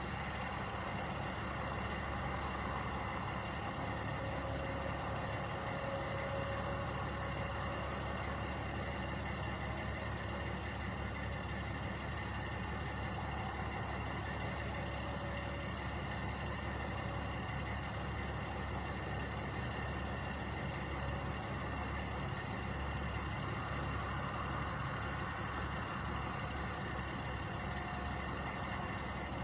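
Truck engines idling, a steady unchanging hum.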